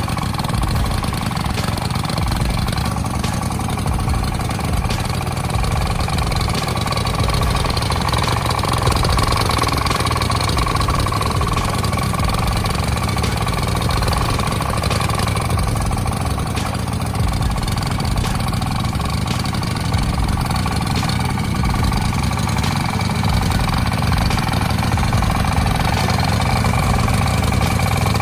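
A heavy engine running steadily at an even speed, with a thin steady whine above the engine note.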